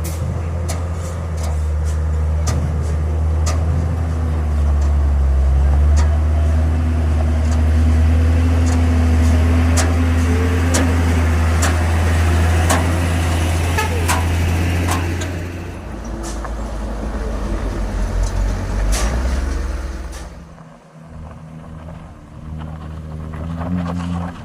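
A heavy diesel truck engine running under load on a steep climb, with repeated sharp clicks and knocks over its steady low drone. The engine sound eases off about two-thirds of the way through and nearly drops out shortly before the end.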